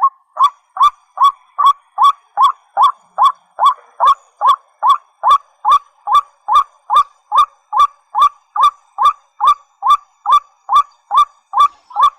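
A rail, a white-breasted waterhen or watercock, calls one short hooked note over and over, evenly spaced at about two to three a second.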